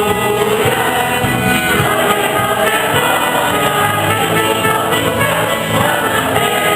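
Church song group singing liturgical music with instrumental accompaniment, steady and continuous.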